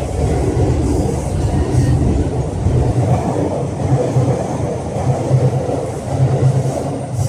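Train running on the rails, a loud, steady low rumble.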